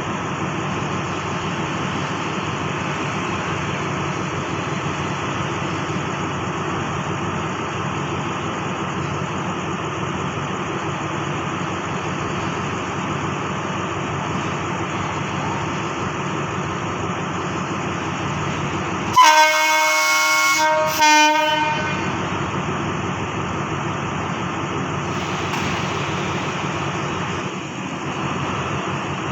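Diesel passenger train running with a steady rumble. About two-thirds of the way in, the locomotive's air horn sounds twice: a blast of about two seconds, then a short one.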